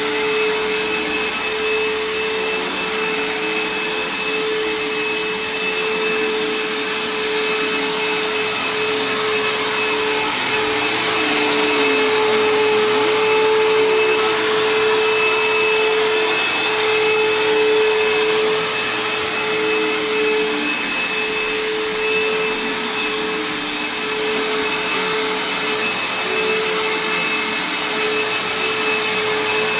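Bissell CleanView Helix 12-amp bagless upright vacuum running steadily, a constant motor whine over the rush of air. It is running without its HEPA filter, which makes it sound a little different.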